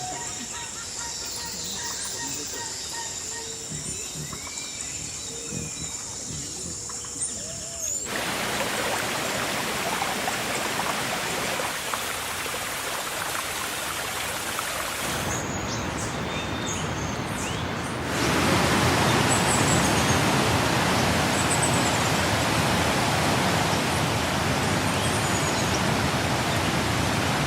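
Heavy rain falling, a steady hiss that grows louder in sudden steps about eight and eighteen seconds in.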